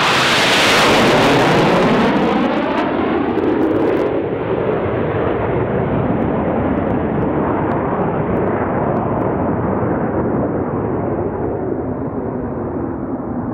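Blue Angels Boeing F/A-18 Hornet jets with twin turbofan engines making a low, fast pass. Loud jet engine noise peaks in the first two seconds, sweeps down in pitch as the jets go by, then slowly fades as they fly away.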